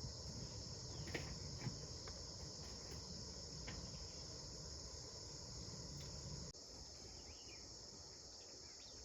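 Faint, steady high-pitched chorus of insects. A low rumble runs underneath and cuts off about six and a half seconds in, with a few faint clicks early on.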